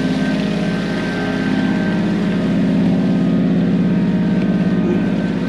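An engine running steadily at a constant speed, with an even, fast pulsing hum.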